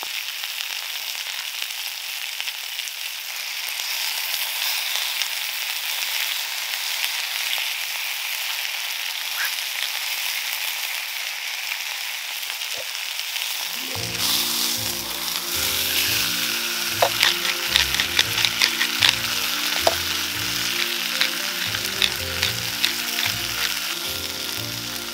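Ribeye steak, peppers and mushrooms sizzling in rendered sheep tail fat on a hot stone slab over high heat. A steady hiss runs throughout, and from about halfway sharp pops of spitting fat come more often.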